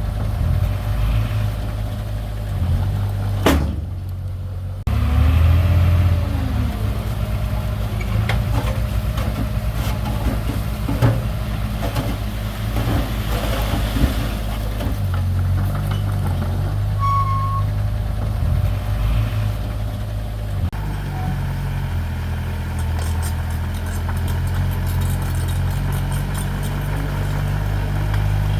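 Diesel engine of heavy earthmoving machinery running steadily, with a short single beep about two-thirds through and a sharp knock early on.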